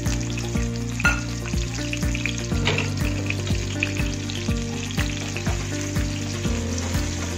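Pieces of sausage frying in hot oil in a kadhai: steady sizzling and spitting, with a metal spatula stirring them near the end. Background music with a steady beat plays underneath.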